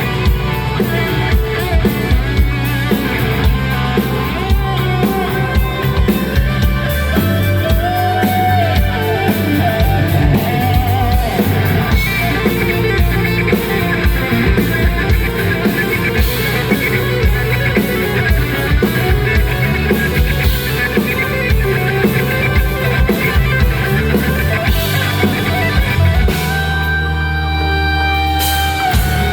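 Live rock band playing an instrumental passage, drum kit and electric guitar together. Near the end the drums stop and held guitar notes ring on.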